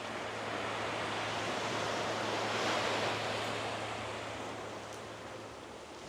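Small surf on a calm beach: a rush of a wave washing in that swells about two to three seconds in and then fades away.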